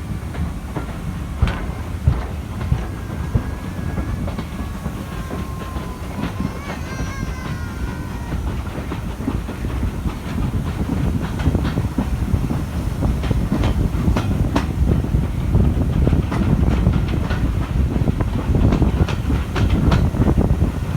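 Steam-hauled passenger coaches running along the track: a steady rumble with irregular clicks of the wheels over rail joints. A faint wavering squeal comes in a couple of seconds in and fades by about eight seconds. The running gets louder in the second half.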